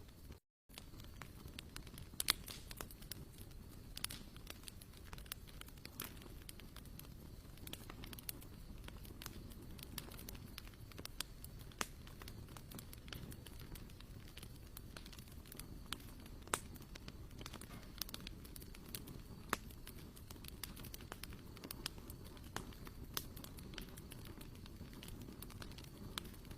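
Wood fire crackling: scattered sharp pops over a low steady rumble.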